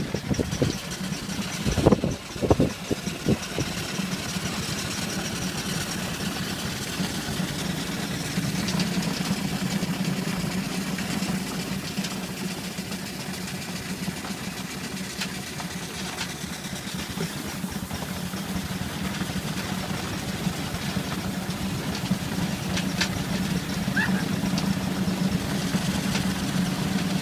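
A vehicle engine running steadily with a low hum, and a few loud knocks about two seconds in.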